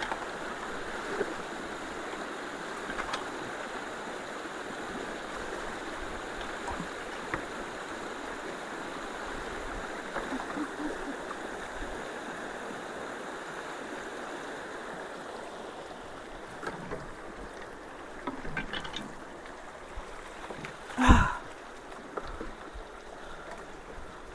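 Creek water rushing steadily through a freshly unclogged road culvert, now flowing freely, easing off somewhat in the last third. A single loud thump near the end.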